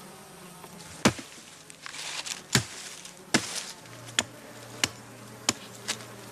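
A series of sharp, irregularly spaced blows, like chopping or hammering, starting about a second in, over a faint steady buzz of insects.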